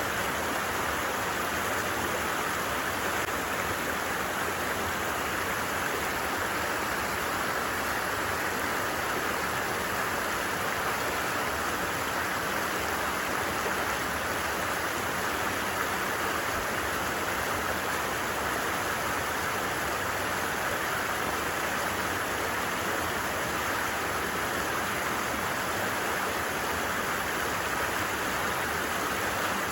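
A stream running steadily, an even rushing of water with no breaks.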